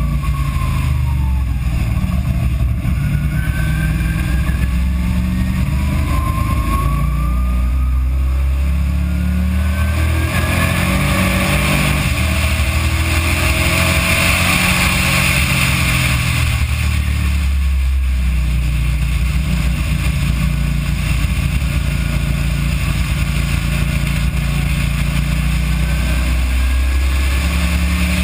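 Race car's engine heard from inside the car at speed on track, accelerating hard with its pitch climbing steadily, then holding high. The revs dip briefly about two-thirds of the way through and run on lower, under a heavy rumble of wind and road noise.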